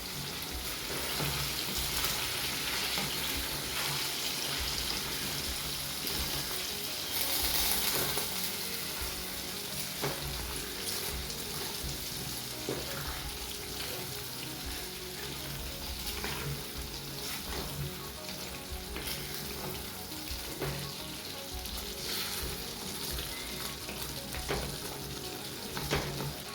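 Chicken curry with cooking cream just added, sizzling in the pan while a spoon stirs it in, with scattered light knocks and scrapes of the spoon against the pan.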